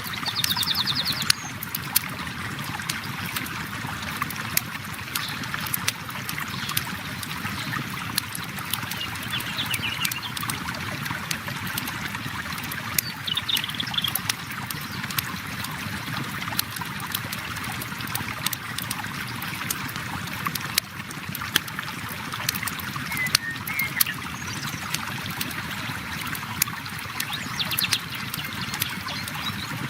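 Steady flow of a river with wood in a campfire crackling, sharp pops scattered throughout. A few faint high chirps come and go.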